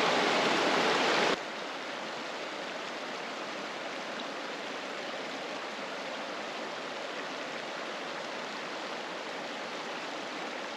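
Rushing mountain stream: steady water noise that drops abruptly to a quieter, even level about a second in.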